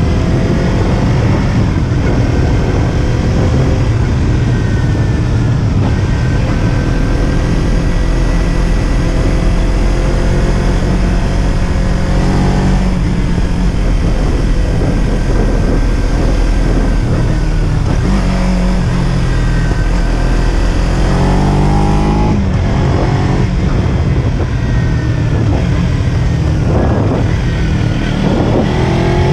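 Kawasaki Z300's parallel-twin engine heard from the rider's position, pulling through the gears with repeated rising revs that drop at each shift, over a steady low rumble.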